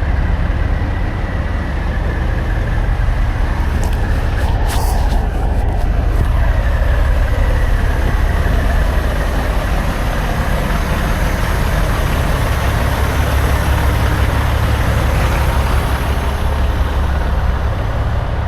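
Semi truck's diesel engine running with a steady low rumble and road noise, with a few brief clicks about four to five seconds in.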